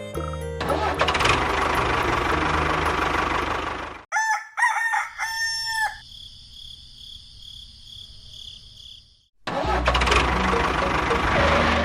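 A rooster crows once, about four seconds in, between two stretches of loud, steady, rushing mechanical noise with a low hum. The noise stops suddenly before the crow and comes back near the end.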